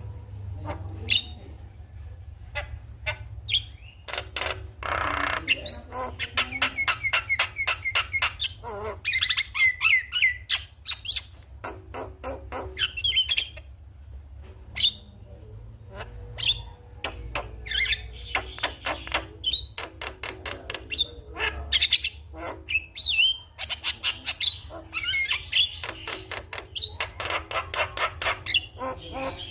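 Javan myna calling: a fast, continuous run of harsh squawks, clicks and chattering whistled notes, over a steady low hum.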